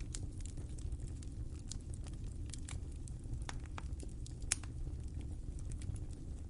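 Wood fire crackling: a steady low rumble of burning with irregular sharp snaps and pops, the loudest pop about four and a half seconds in.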